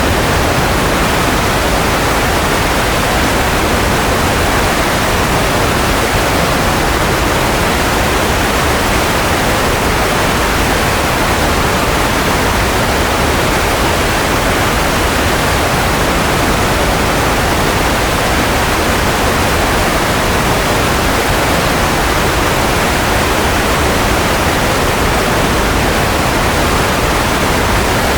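Steady white noise for baby sleep: an even, unchanging hiss.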